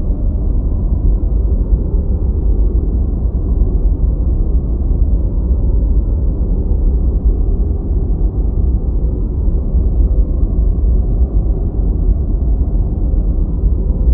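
Deep white noise for studying: a steady, even rumbling hiss, strongest in the deep bass with nothing high-pitched, unchanging throughout.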